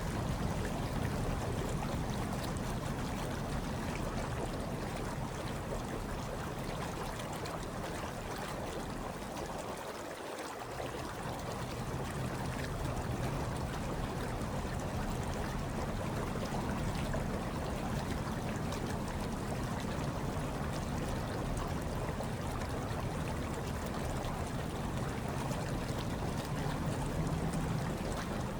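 Hot tub water bubbling and churning steadily, over a low rumble that drops away briefly about ten seconds in.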